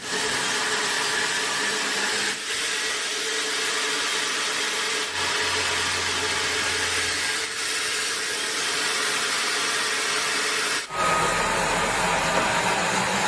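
Loud, steady noise of sawmill machinery running, changing abruptly several times as one stretch of machine noise gives way to another.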